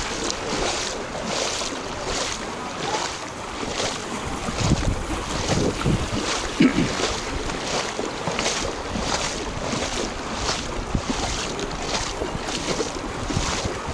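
Footsteps wading through shallow floodwater, a splash about twice a second at walking pace, with wind on the microphone.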